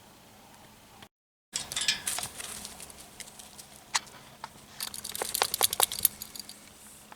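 Footsteps crunching and crinkling on a trail, with irregular sharp clicks, starting after a brief total dropout of the sound about a second in.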